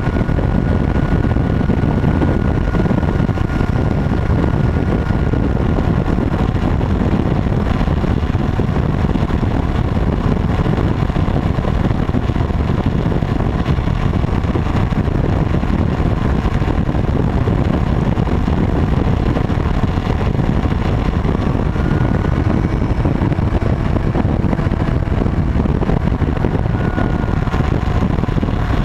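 Steady rumble of a motorcycle ride, the engine running at a constant speed with no change in pace.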